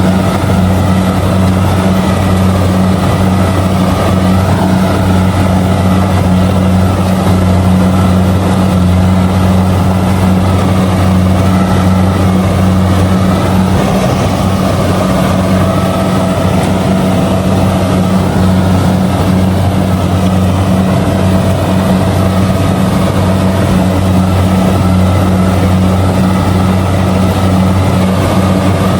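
Kubota DC70G combine harvester running steadily and loudly while harvesting rice: an even, low engine drone with machinery noise above it.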